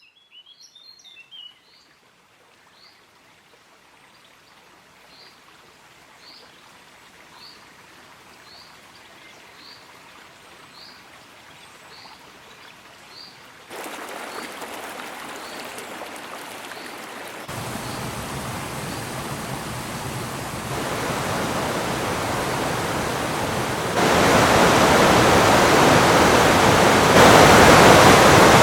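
Whitewater of the North Fork of the Payette River rushing steadily, getting louder in several sudden steps until it fills the sound. A small bird chirps in a quick flurry at the start, then repeats a single high chirp about once a second through the first half.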